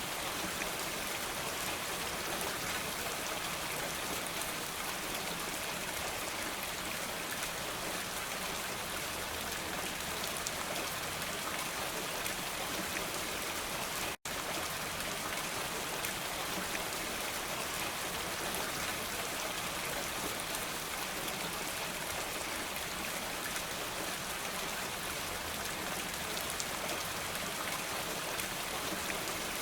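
Steady, even rain falling on a surface, with no thunder, broken only by a split-second dropout about halfway through.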